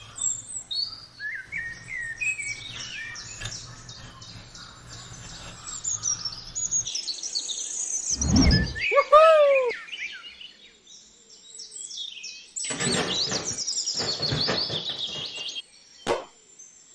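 Birds chirping and singing throughout. About eight seconds in there is a thump followed by a short falling call, and later a run of quick scraping strokes.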